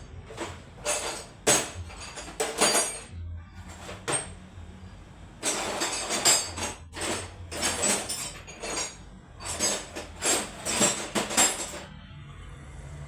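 Metal hand tools clinking and clattering as someone rummages through a tool drawer for a wrench, a run of sharp clinks and short scrapes that stops about a second before the end.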